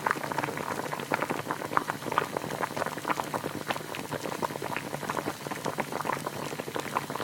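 Liquid bubbling, with a dense run of irregular small pops and crackles.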